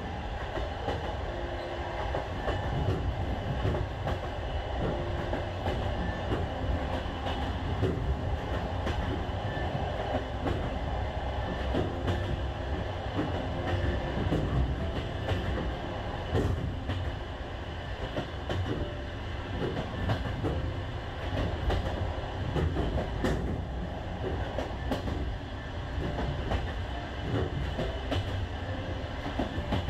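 Passenger train running along the track: a steady rumble of wheels on rails, with occasional clicks at the rail joints.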